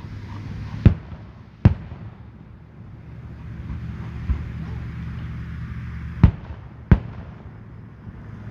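Fireworks going off: four sharp bangs, a pair about a second in and another pair near the end, over a steady low background.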